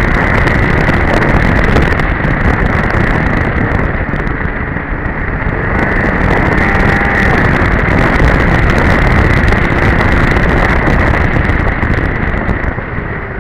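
2002 Polaris Edge snowmobile running along the trail at speed, its two-stroke engine and track making a loud steady drone with a whine, mixed with wind noise on the microphone. Near the end it gets quieter as the sled eases off.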